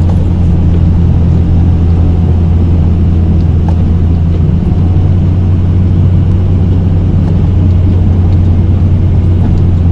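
Snow-plow pickup truck's engine running with a steady low drone as the truck pushes a scoop of snow with its V-plow.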